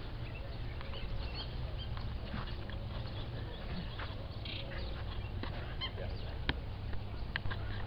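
Birds chirping and calling in short, scattered notes over a steady low rumble, with a few sharp clicks in the second half.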